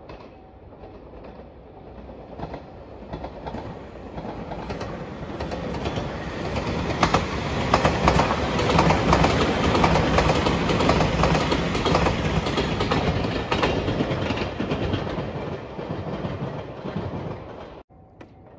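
JR Shikoku Shiokaze limited express electric train (the white Anpanman train) passing at speed, its wheels clicking over rail joints. It grows louder to a peak midway, then fades, and the sound cuts off abruptly near the end.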